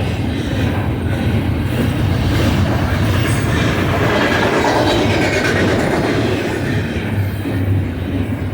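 Freight train's double-stack container cars rolling past on the mainline: a steady rumble of steel wheels on rail.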